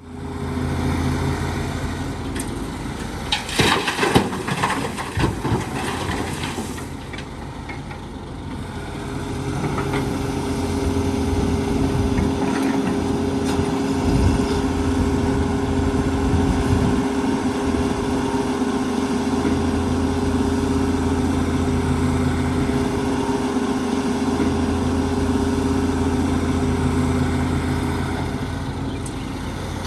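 Diesel engine of an excavator working, a steady low drone with a cluster of knocks and clatter a few seconds in, then the engine rising and running harder from about ten seconds on.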